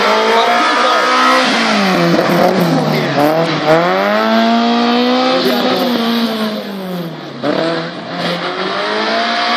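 Tuned Autobianchi A112's engine revving hard as the car accelerates, its pitch climbing and dropping back several times as it shifts and brakes for the cones, briefly quieter near the end.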